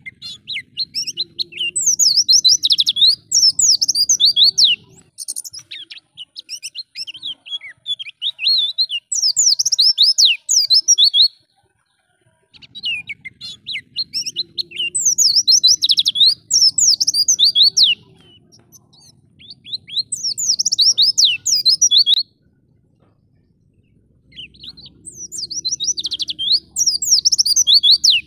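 White-eye (pleci) singing in five bursts of fast, high twittering song, each a few seconds long with short pauses between.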